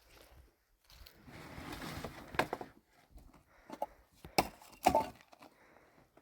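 Wooden boards being handled: a rustling scrape, then several sharp knocks of wood against wood, the loudest two near the end.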